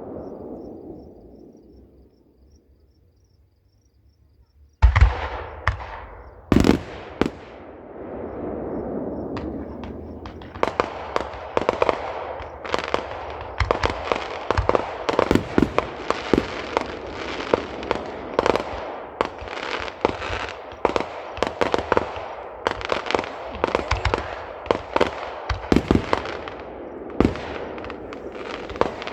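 Aerial fireworks display. A fading rumble gives way to a short lull, then a loud boom about five seconds in and another a second or two later. From about ten seconds in comes a dense, rapid series of bangs and crackling bursts that runs on without a break.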